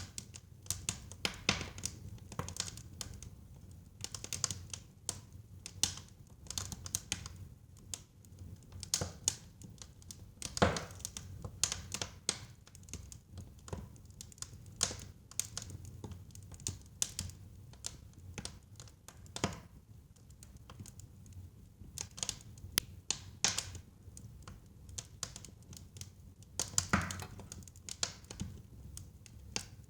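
Wood burning in a fireplace, crackling with irregular pops and snaps over a low steady rumble. The sharpest pops come about a third of the way in and again near the end.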